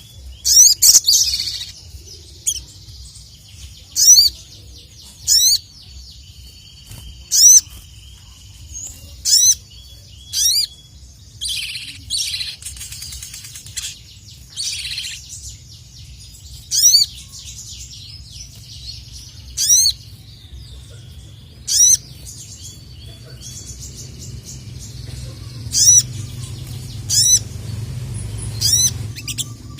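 Sogon (sogok ontong) sunbird calling with loud, sharp, repeated chirps that sweep down in pitch, one every second or two, with a few short rustling bursts between them. This is the agitated calling used to challenge a rival.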